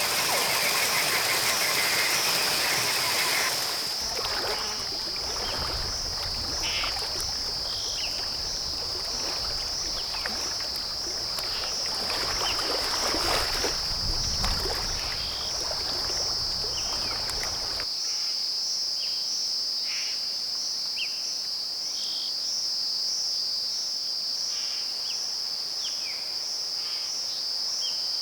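Rainforest ambience of a steady, high insect trill with a slight pulse, and short chirping calls scattered over it. A rushing noise fills the first few seconds and then stops abruptly. A low rumble runs under the middle part and cuts off suddenly about two-thirds of the way through, leaving only the trill and chirps.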